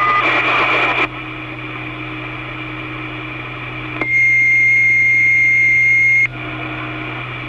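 Two-way railway radio channel: a burst of static about a second long, then open-channel hiss, with a single steady high-pitched beep tone lasting about two seconds in the middle.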